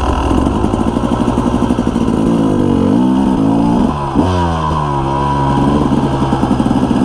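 KTM 300 EXC single-cylinder two-stroke engine with a full FMF exhaust, revving up and down as the bike is ridden. It gives a quick sharp rev about four seconds in, then falls back and climbs again near the end.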